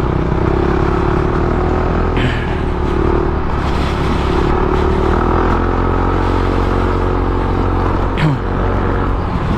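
Motorcycle engine running steadily, its hum wavering slowly up and down in pitch.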